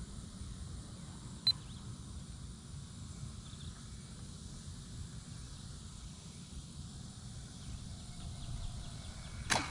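Wind rumbling on the microphone, with a sharp click about one and a half seconds in and another just at the end. Late on, a faint gliding whine is heard, which fits the radio-controlled Cessna 182's motor passing at a distance.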